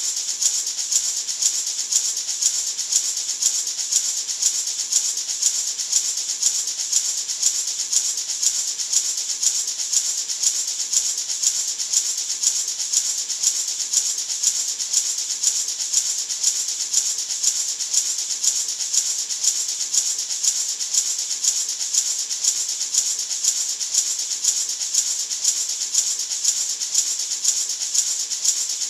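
Natural gourd maraca shaken in a steady, even rhythm of about two shakes a second, its seeds giving a bright, hissy rattle.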